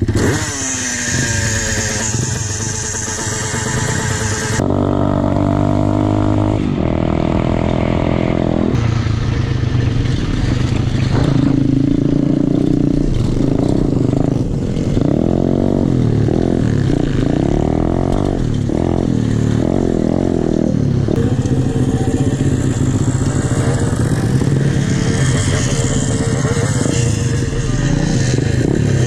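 Small single-cylinder pit bike engines running and being revved, the pitch repeatedly rising and falling. There are a few abrupt jumps in the sound, as between separate shots.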